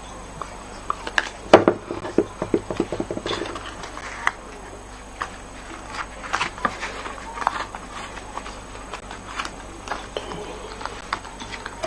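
Light clicks, taps and rustles of small paper pieces and crafting tools being handled on a desk as die-cut paper snowflakes are placed on a card.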